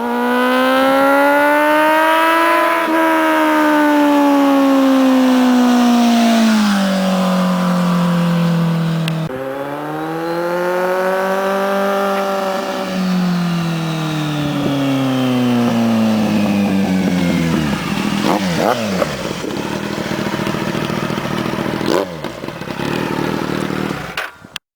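Kawasaki Z750's inline-four engine running through a LeoVince SBK EVO II aftermarket exhaust, its pitch rising and falling in several long sweeps as it speeds up and slows. In the last few seconds it drops to a lower, rougher note with crackles, then cuts off suddenly.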